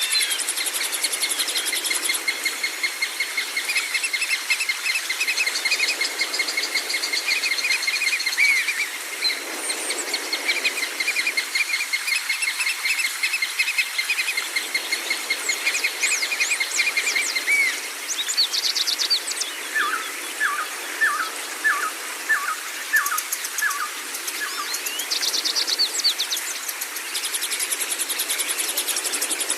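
Several songbirds singing together: long rapid trills and repeated chirps, with a run of short falling whistles about two-thirds of the way through and brief very high trills now and then.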